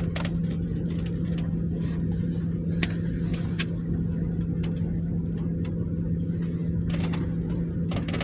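Motor vehicle running: a steady low rumble with a constant hum, and scattered light clicks and rattles.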